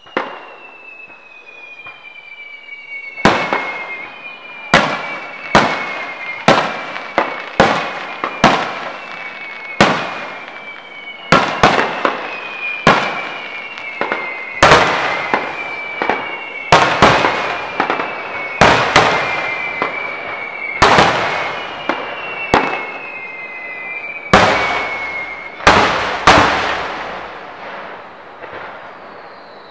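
Aerial fireworks going off: a fast run of loud shell bursts, about one a second from about three seconds in, with long whistles falling in pitch between them.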